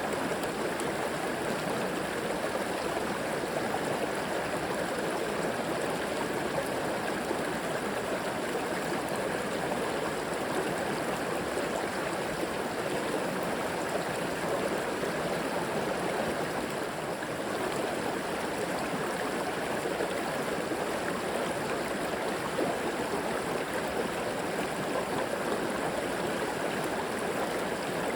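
River water flowing and gurgling over rocks: a steady, even rush.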